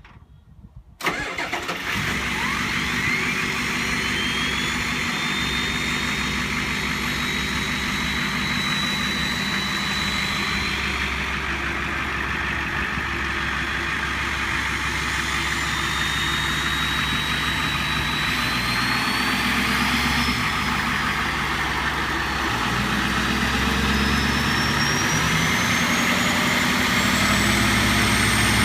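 Ford turbo-diesel V8 pickup engine running, coming in suddenly about a second in, with a high turbo whistle over it. The whistle rises in pitch, holds, fades out midway, then returns and climbs higher near the end as the engine gets slightly louder.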